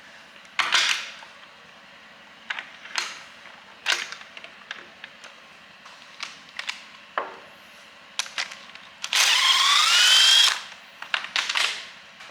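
Metal tool clicks and knocks, then about nine seconds in a power tool runs for about a second and a half, its whine rising in pitch and then holding, as the first spark plug is spun out of the engine. A few more clicks follow.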